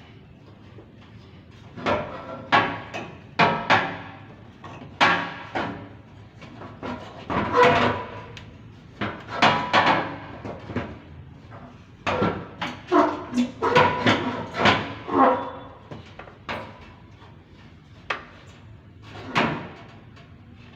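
An irregular series of sharp metal knocks and clanks, in clusters with quiet gaps between, some ringing briefly, as metal parts and tools are handled.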